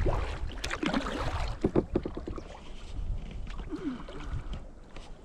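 Kayak paddling: the paddle dipping and splashing, with a run of sharp knocks in the first two seconds, over low wind rumble on the microphone.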